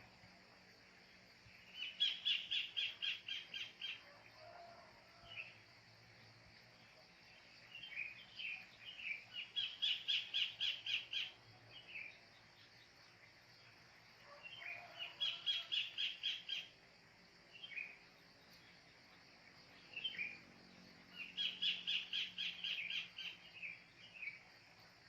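A kingfisher (cekakak) calling in four bouts of rapid repeated notes. Each bout lasts two or three seconds and they come about six seconds apart, with a few single notes in between.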